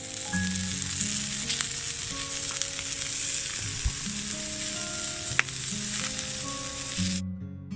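Tempura deep-frying in hot oil: a steady sizzle with a few sharp pops, cutting off suddenly near the end. Soft guitar music plays underneath.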